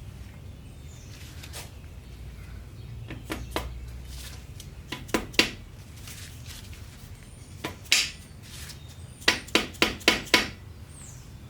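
Sharp metal clinks and taps from main bearing caps and parts being handled and seated on a small-block Ford engine block: a few scattered clinks, then a quick run of five near the end.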